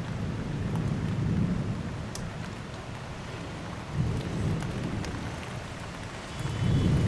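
Thunder rumbling in rolling swells over steady heavy rain. A fresh peal breaks suddenly about four seconds in, and another builds near the end.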